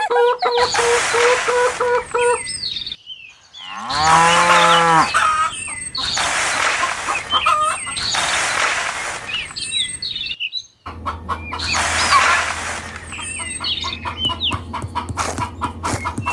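A cow moos once, a long call falling in pitch about four seconds in, among bird chirps and several short, abrupt bursts of hissing noise. A low steady hum comes in about eleven seconds in.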